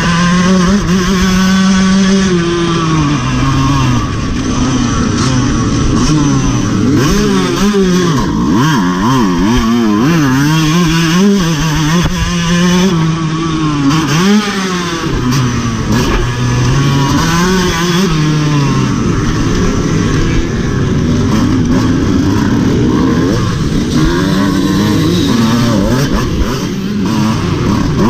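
Dirt bike engine heard from the rider's own bike, revs repeatedly rising and dropping as the throttle is opened and closed through the course.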